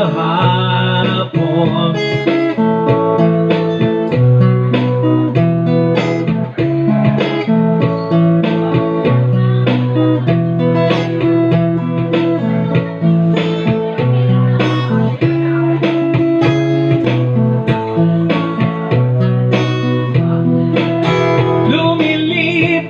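A sung note is held and fades about two seconds in. Then comes a guitar-led instrumental break of a slow ballad: plucked guitar notes over a steady bass line.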